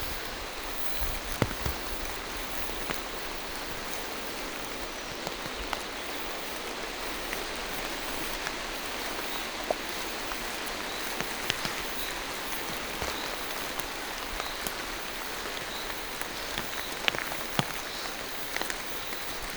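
Steady rain falling through a forest, an even hiss with scattered sharp taps every few seconds.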